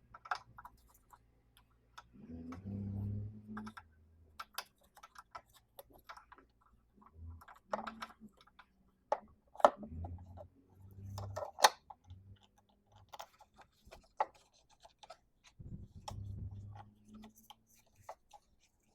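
Scattered small clicks, taps and scrapes of hands handling tools and parts, with a few short low thumps.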